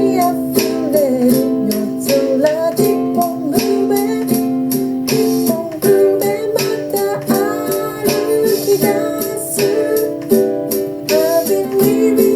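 Ukulele strummed in a steady rhythm of chords, with a woman's voice singing the melody over it.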